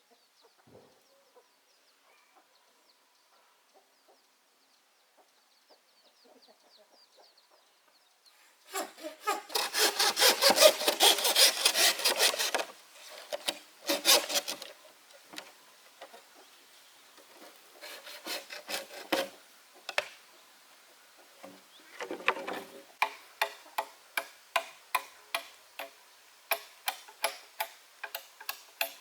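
Hand saw cutting wood in bursts of quick back-and-forth strokes, slowing to separate strokes, about two or three a second, near the end. The first few seconds are faint.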